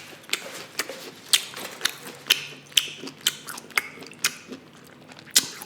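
Close-miked mouth sounds of someone chewing food: a string of sharp, wet clicks and smacks, about two a second.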